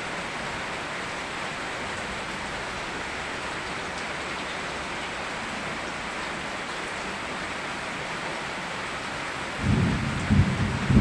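Steady rain, with a loud low rumble of thunder starting near the end.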